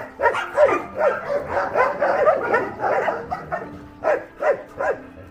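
Several dogs barking and yipping over one another in quick, dense succession.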